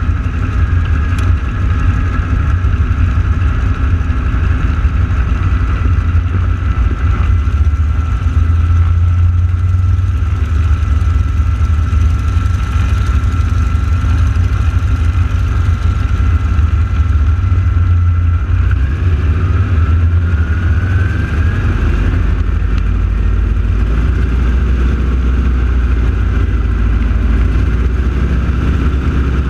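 North American T-6 Texan radial aircraft engines running on the ground at idle: a loud, steady low rumble with a thin whine above it that rises in pitch about two-thirds of the way through.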